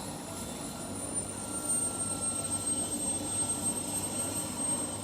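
Aircraft engine noise running steadily, with a thin high whine that drops slightly in pitch about a second in.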